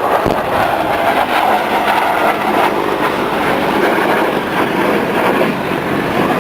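Loud, steady military aircraft noise that holds at one level throughout, a dense rushing sound with a faint low hum beneath.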